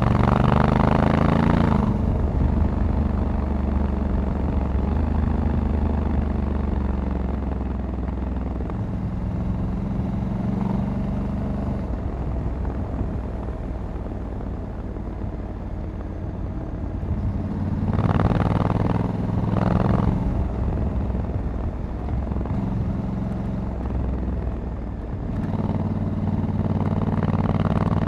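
Honda Africa Twin 1100 DCT's parallel-twin engine running on the road, heard from the rider's seat. It climbs in revs at the start, settles into a steady drone, then pulls up again about eighteen seconds in and once more near the end.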